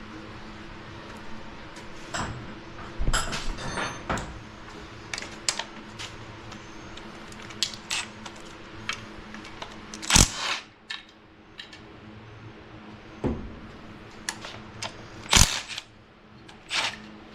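Metal hand tools and small engine parts clinking and clattering, with scattered light clicks and a few sharper metallic clanks, over a steady low hum.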